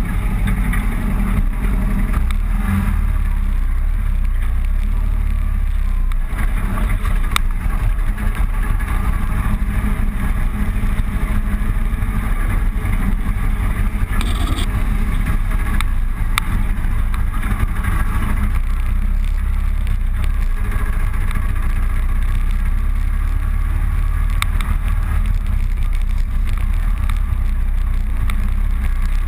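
Vehicle travelling along a road: a steady, loud low rumble of engine and road noise, with a brief hiss about halfway through.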